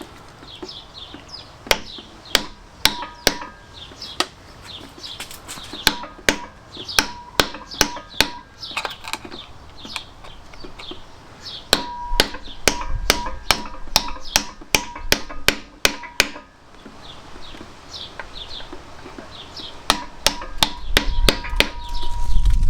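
Hammer blows on a big screwdriver against steel, knocking back the bent-over retaining washer on a Fiat 500 crankshaft hollow bolt. The strikes are sharp and come in irregular runs with short pauses, and some ring briefly.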